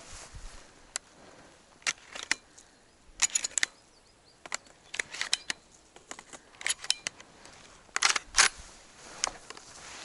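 Irregular sharp snaps and crackles of dry twigs and brush underfoot while walking through woodland, in scattered single clicks and short clusters, loudest about three seconds in and again near the end.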